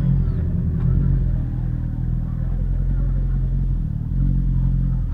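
Motorcycle engine running steadily at low, even revs, with a deep, constant hum and only slight dips in level.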